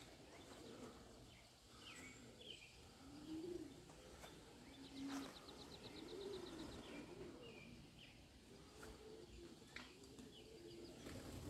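Pigeons cooing faintly: soft low coos that rise and fall, repeated several times, with a few short chirps from small birds and a quick trill about five seconds in.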